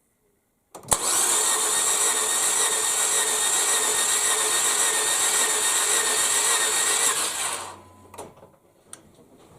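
A power tool starts with a click about a second in and runs steadily for nearly seven seconds, then winds down.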